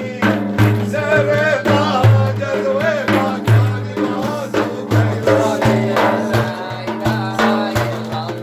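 Male voice singing an ornamented Arabic devotional praise song (madih), with drum beats and a steady low drone underneath.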